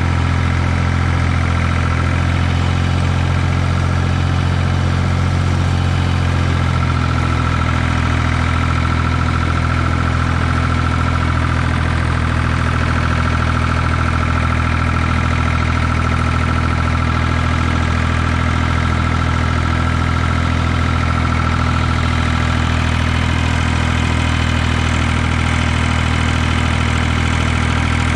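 Ford 2000 tractor's three-cylinder diesel engine running at a steady speed, with no revving or change in pitch.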